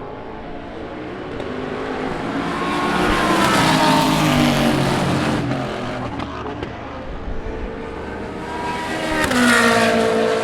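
Race car engines passing at speed, one after another: the first swells to a peak about four seconds in and falls away in pitch, and a second rises sharply and sweeps past near the end.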